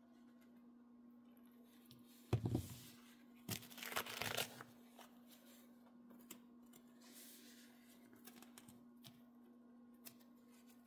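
Material being torn or handled in two short rustling spells, about two and four seconds in, over a steady low hum.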